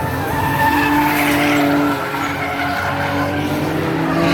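Drift car sliding through a corner, its engine held at high revs over the hiss of skidding tyres; the revs ease about two seconds in and climb again near the end.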